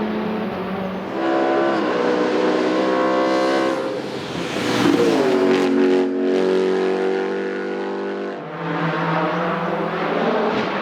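Race car engine at full throttle on a hillclimb course, the pitch jumping several times as it changes gear, loudest about halfway through as it passes close by.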